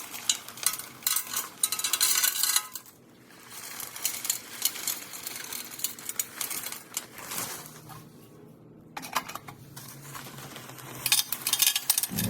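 Small white crushed-stone gravel being poured and placed into a porcelain planter, clattering and rattling in several spells with short pauses between them.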